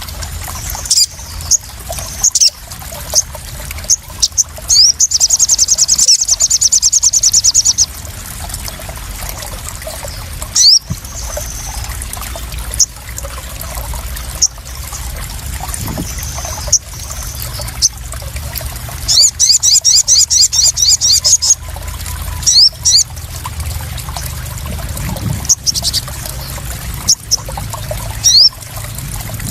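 Sogon (sunbird) calls: short, sharp, high chirps scattered through, and twice a long, fast, loud trill of rapid chirps, over steady splashing and trickling water.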